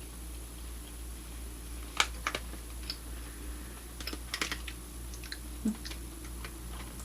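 Person chewing a strip of black pepper beef jerky: irregular sharp mouth clicks and smacks, with a cluster of them partway through and one low thump, over a steady low room hum.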